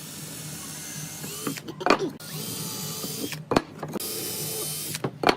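Power drill running in short bursts of about a second each, with a high motor whine, and sharp knocks between the runs.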